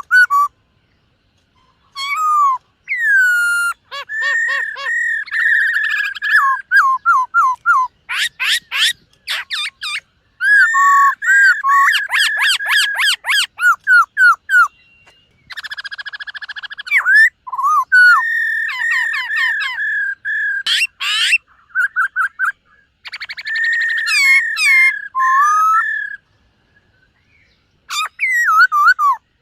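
Black-throated laughingthrush singing: loud, varied whistled phrases with rapid repeated notes and trills, broken by short pauses and a longer pause near the end.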